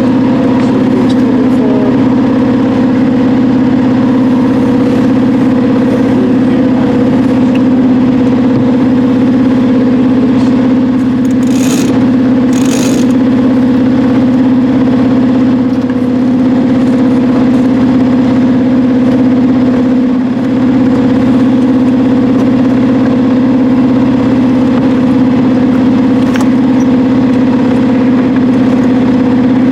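A sailboat's engine running steadily at a constant speed, a droning hum that doesn't change. Two short, higher noises cut in briefly about twelve seconds in.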